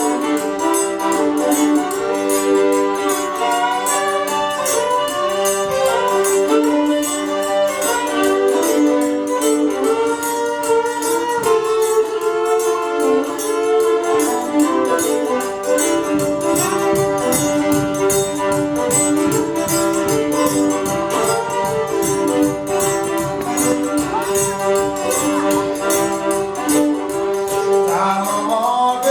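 A Cajun string band plays a tune, with accordion and fiddle carrying held melody notes over chords. A quick steady rhythm comes in underneath about halfway through, and a rising slide is heard near the end.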